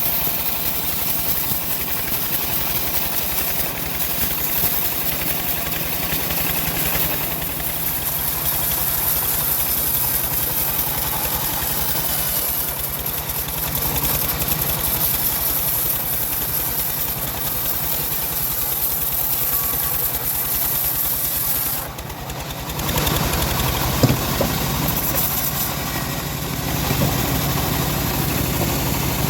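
Home-built bandsaw mill running and sawing a young johar log: a steady engine drone under a high saw hiss. The sound drops briefly about 22 seconds in, then goes on at a lower, heavier tone, with a sharp click about two seconds later.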